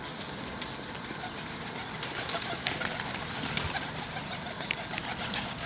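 Domestic pigeons cooing and shuffling about, with scattered faint clicks and scrapes.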